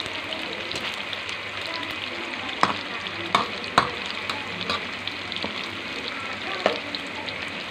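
Tofu cubes deep-frying in hot oil in a metal wok: a steady sizzle with small crackles. A ladle stirring the tofu clacks sharply against the wok four times, three of them between about two and a half and four seconds in and one near the end.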